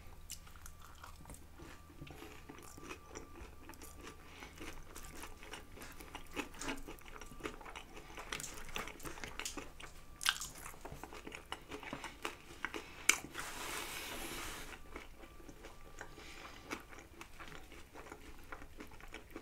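A person chewing and biting loaded char siu fries close to the microphone, with irregular crunches and mouth clicks. The loudest crunches come about halfway through and again about two-thirds in, the second followed by a short hiss-like rustle.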